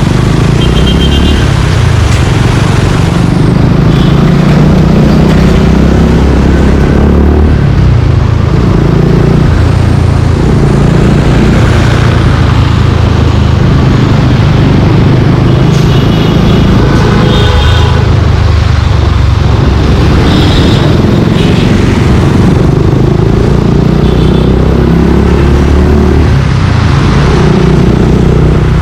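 Suzuki Gixxer 155's single-cylinder engine running through an aftermarket Yoshimura exhaust while riding, its note rising and falling again and again as the throttle opens and closes. Other street traffic is heard around it.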